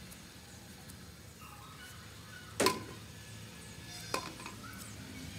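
Two sharp clinks of a kitchen utensil striking a dish, the first louder with a short ring, the second about a second and a half later.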